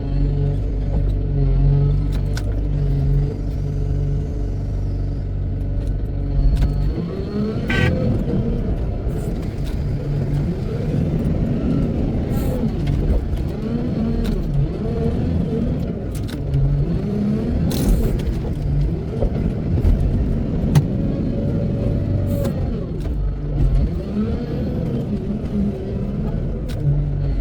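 Wheel loader's diesel engine running steadily, then from about seven seconds in revving up and down over and over as the loader works, with a few knocks and clanks.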